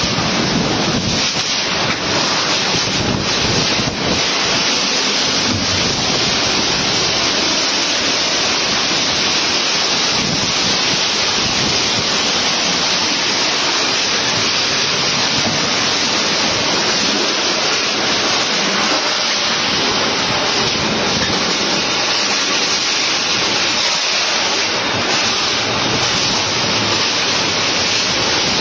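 Strong wind in a storm: a loud, steady rushing with uneven low rumbles of gusts buffeting the microphone.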